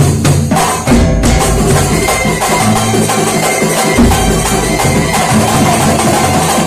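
Kuntulan ensemble rehearsing: frame drums and other hand percussion playing a fast, dense rhythm, with a few sharp accented strokes in the first second.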